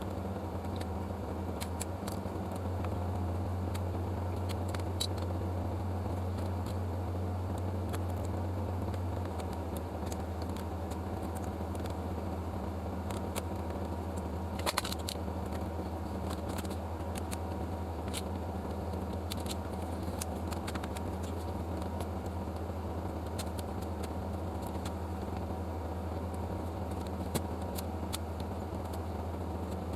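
A steady low machine hum with small clicks scattered through it, and one sharper click about halfway through.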